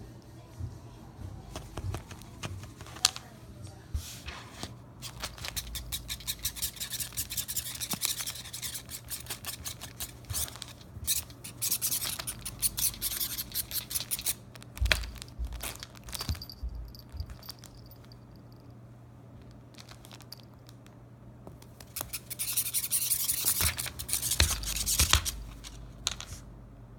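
A cat pawing at a cat teaser wand toy: quick scratching, rustling and clicking in bursts, busiest about six to fifteen seconds in and again near the end, over a steady low hum.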